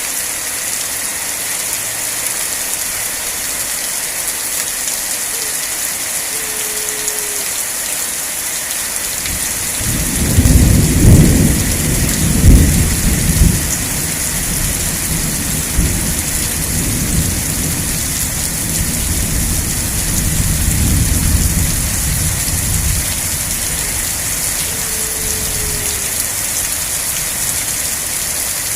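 Steady rain hissing, with a rolling rumble of thunder that starts about ten seconds in, is loudest in its first few seconds and dies away some thirteen seconds later.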